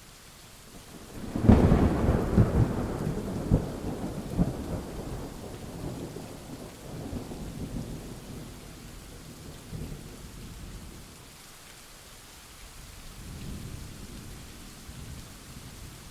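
Thunder over steady rain: a sharp, loud clap about a second and a half in that rolls on as a crackling rumble and fades over the next several seconds, with a softer distant rumble near the end. Rain falls throughout as an even hiss.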